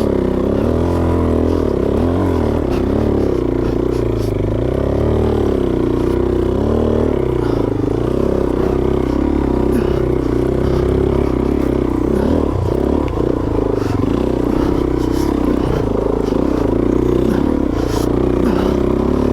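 Suzuki DRZ400S single-cylinder four-stroke dirt bike engine pulling up a difficult trail climb, its pitch rising and falling over and over with the throttle. A few sharp knocks and clatter come through at times.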